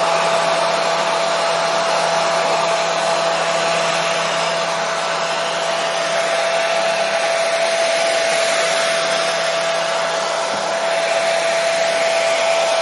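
Hair dryer running steadily: an even rush of blown air with a constant motor whine, used as white noise for lulling babies to sleep.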